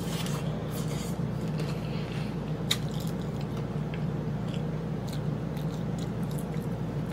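Chewing a mouthful of hard corn taco shell filled with spaghetti: faint crackling crunches, with one sharper crack about two and a half seconds in, over a steady low hum.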